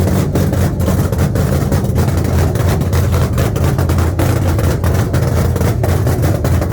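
Loud car engine running steadily, a low rumble with rapid, uneven pulsing.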